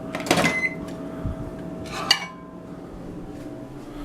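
A plate being handled, clinking and clattering twice: once just after the start and once about two seconds in, the second clink ringing briefly.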